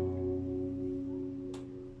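Classical guitar chord left ringing and slowly fading away after a run of strums, with one faint tick about one and a half seconds in.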